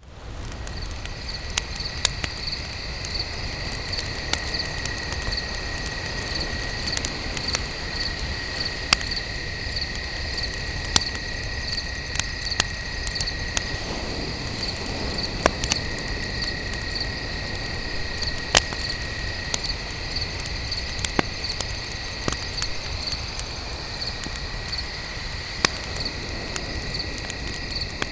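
Crickets chirping steadily at night, one pulsing about twice a second over a second continuous trill, with a crackling campfire popping sharply at irregular moments over its low rumble.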